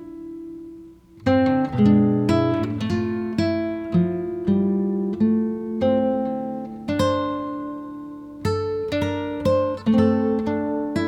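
Background music of a plucked acoustic guitar playing a melody of single notes and chords, fading almost out about a second in before picking up again.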